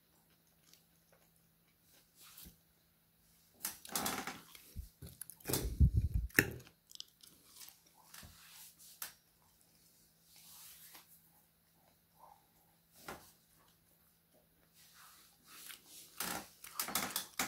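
Close-up mouth sounds of someone chewing food between soft clicks. Louder knocks and scrapes of cutlery on a plate come about four to six seconds in and again near the end.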